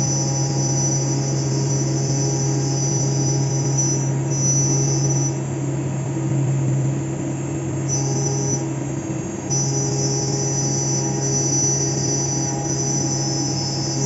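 Fagima Jazz M 5-axis CNC milling machine cutting a part: a steady low machine hum under a high-pitched cutting whine. The whine drops out for about two seconds some five seconds in, and again briefly around nine seconds, then returns.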